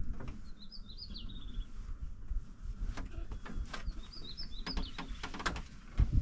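A small bird singing twice, each time a short phrase of quick high notes that ends in a trill. Scattered clicks and knocks go on underneath.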